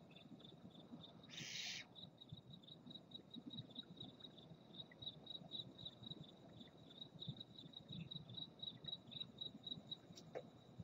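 Faint barn owl hiss: one short, rasping burst about one and a half seconds in. Under it a cricket chirps steadily, several chirps a second.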